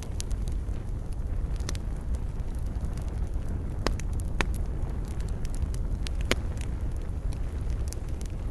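Wood campfire burning: a steady low rumble with scattered sharp crackles and pops, the loudest few about four, four and a half and six seconds in.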